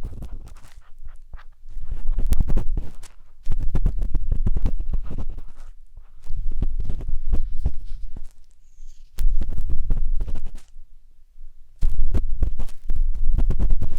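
A matchstick scraping and rubbing inside the silicone ear of a 3Dio binaural microphone, in repeated deep, muffled rustling bursts of one to two seconds with short pauses between them.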